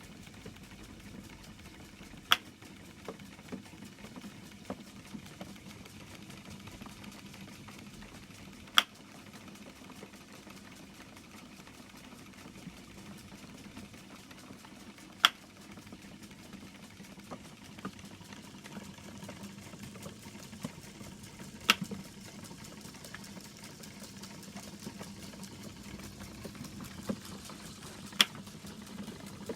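A 1930s sawmill automaton running: a steady mechanical whir from its drive, punctuated by a sharp click about every six and a half seconds as the mechanism cycles, with fainter ticks in between.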